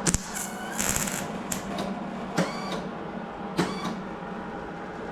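A sharp knock, then three short metallic scrapes or squeaks with brief ringing tones, about a second apart, over a steady low hum.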